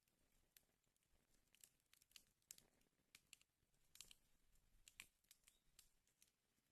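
Faint wood fire crackling in a fireplace: irregular sharp pops and ticks, the strongest about two and a half, four and five seconds in.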